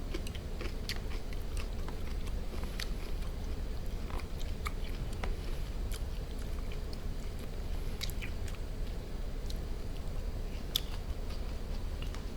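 A person chewing food close to the microphone, with scattered short wet clicks and smacks of the mouth, over a steady low hum.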